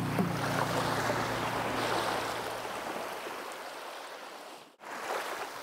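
Sea waves washing in over beach stones and draining back, a steady rushing of water that slowly fades. It drops out abruptly for an instant near the end.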